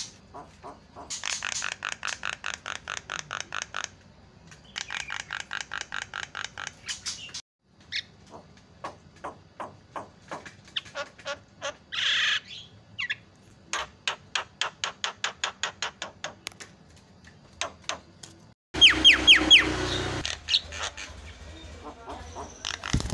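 Javan myna (jalak kebo) calling: fast runs of clicking, chattering notes at about eight to ten a second, a harsh squawk near the middle, and a louder burst of several falling whistles toward the end.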